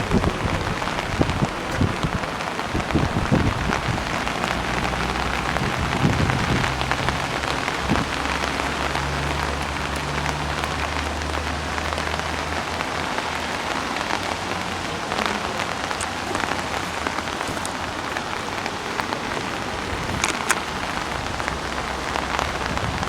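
Heavy rain falling steadily and hissing on hard surfaces during a rain storm. A low hum sits under the rain for a few seconds in the middle.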